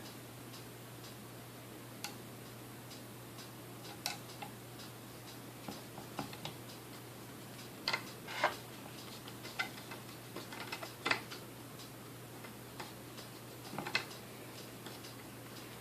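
Irregular small clicks and taps of mixer parts and tools being handled and fitted during reassembly of a vintage Sunbeam Mixmaster, a few louder clusters among them, over a faint steady low hum.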